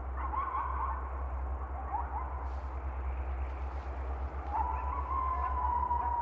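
Coyote-style howling and yipping: short wavering yips in the first two seconds, then a long howl held from about four and a half seconds in, sliding slowly down in pitch. A steady low rumble runs underneath.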